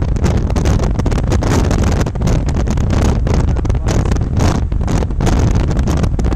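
Wind buffeting the microphone of a moving car, a loud steady rush with heavy low rumble and rapid irregular crackling gusts, over the car's road noise.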